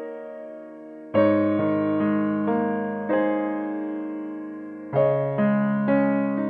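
Slow, soft piano music: chords struck about a second in and again around five seconds in, each left to ring and fade.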